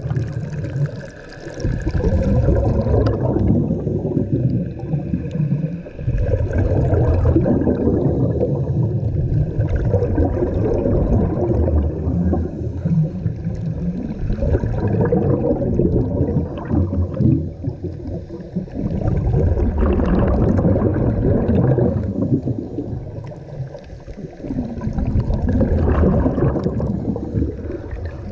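Gurgling of a scuba diver's exhaled bubbles, heard underwater through a camera housing. It swells and fades every few seconds with the diver's breathing.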